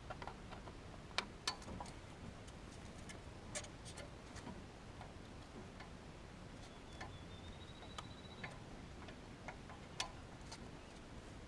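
Faint, scattered clicks and taps at irregular intervals: small parts handled while a new fuel filter is fitted into its housing.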